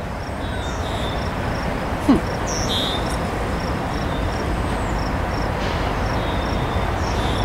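Distant approaching Norfolk Southern train: a low, steady rumble that slowly grows louder. Insects chirp in a steady rhythm, about three to four chirps a second, and a few birds call.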